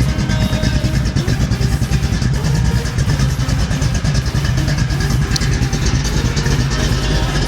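565 cubic inch big-block Chevy V8 with a solid roller cam running steadily through a Flowmaster exhaust, a loud, even pulsing exhaust note with no revving.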